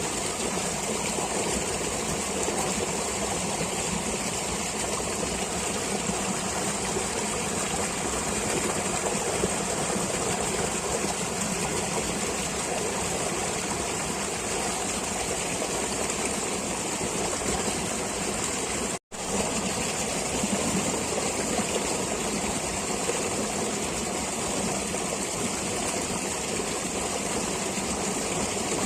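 Steady rushing of flowing stream water, an even wash of sound with no change in character. It cuts out completely for a split second about two-thirds of the way through.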